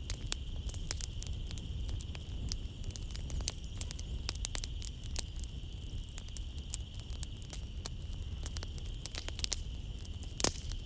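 Wood fire crackling in a fireplace, with frequent sharp pops and one louder pop near the end, over a low rumble. A steady high chirring of night insects runs underneath.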